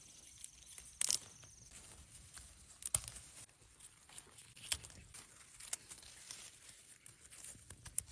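Faint scattered clicks, taps and rustles at irregular intervals, with a few sharper knocks about a second in, near three seconds and just before the end. A thin, steady high trill runs through the first second and a half, then stops.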